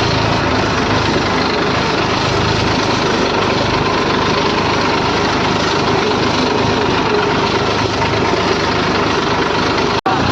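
An engine running steadily, with a continuous hum and no change in speed; the sound cuts out for an instant near the end.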